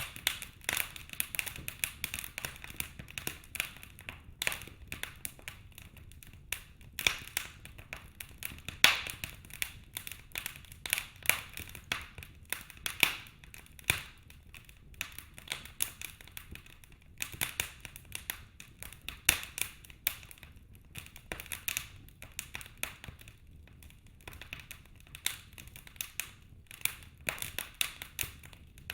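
Wood logs burning in a fireplace, crackling and popping irregularly with frequent sharp snaps over a faint steady low rumble.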